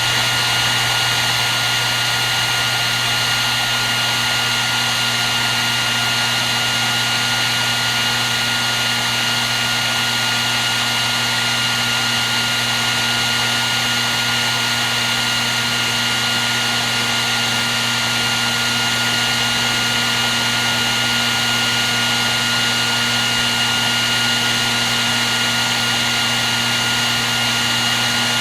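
Hair dryer running continuously: a steady rush of blown air with a constant motor whine, unchanging throughout.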